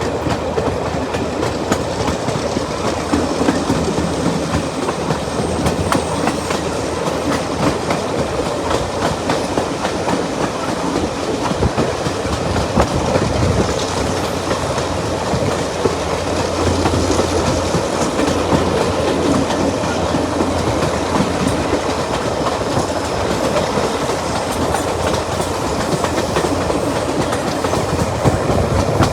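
Passenger train running on jointed track behind a Class 35 Hymek diesel-hydraulic locomotive: a steady rumble with the wheels clicking over rail joints and a low engine drone that swells in the middle.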